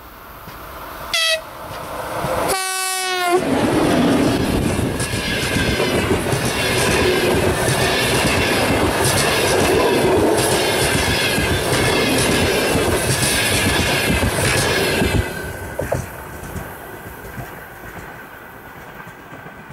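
TEP70BS diesel locomotive sounding its horn, a short blast about a second in and a longer one just after, then the locomotive and passenger coaches rushing past close by with the rhythmic clickety-clack of wheels over rail joints, fading away near the end.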